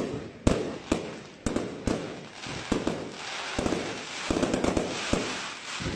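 Professional fireworks display: a quick run of sharp bangs from shells bursting, about two a second, giving way about three seconds in to a dense hiss of many small bursts that fades near the end.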